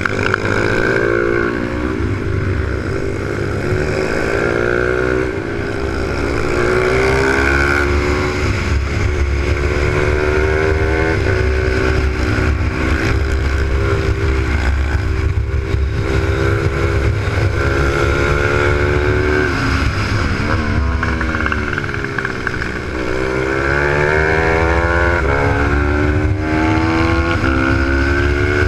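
Supermoto pit bike's Z155 single-cylinder four-stroke engine heard on board at racing pace: the revs climb again and again and drop back as the rider shifts and comes off the throttle for corners. A steady low wind rumble on the microphone runs underneath.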